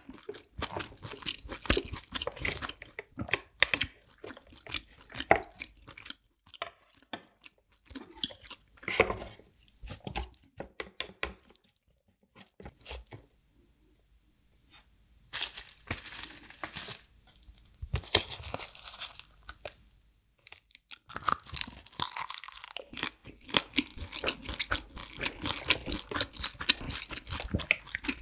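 Close-up eating sounds of soy-sauce-marinated raw crab with rice: wet chewing, sucking and crunching of crab shell, coming in dense clusters of clicks with a quieter pause a little past the middle.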